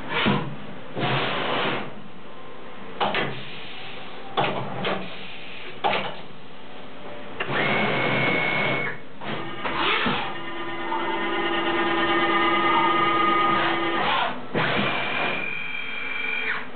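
UJH450 horizontal machining center with a rotary table running a machining cycle. Short bursts of cutting and movement noise come every second or two, among steady whining tones that switch on and off, one high whine near the middle and again near the end, a lower hum for a few seconds in between.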